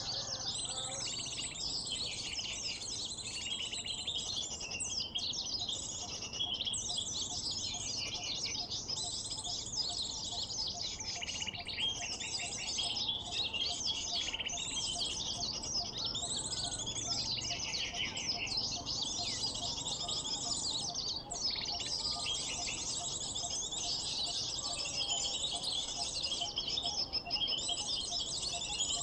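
Dense, continuous twittering and chirping of many small birds: a bird-luring (pikat) mp3 of sunbird calls. Fast, high trills overlap throughout, with a faint, rapidly repeated lower note underneath.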